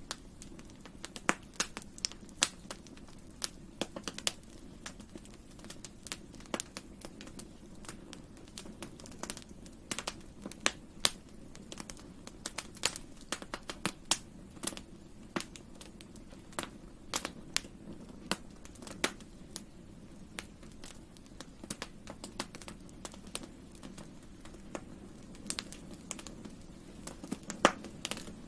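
Wood fire burning: steady low hiss of the flames with frequent irregular crackles and sharp pops from the burning wood, a few much louder than the rest.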